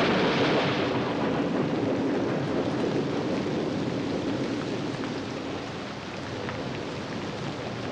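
Steady heavy rain with thunder rolling underneath, loudest at the start and slowly dying away.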